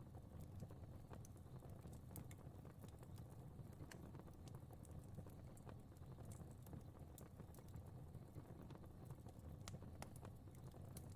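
Faint crackling fire: scattered sharp pops and crackles at an irregular pace over a soft, steady low rumble of burning.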